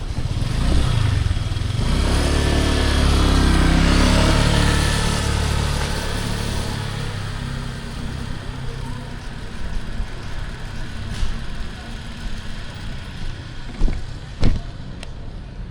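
A motor vehicle passes close by in street traffic, its engine swelling to loudest a few seconds in and then fading away. Two sharp knocks come near the end.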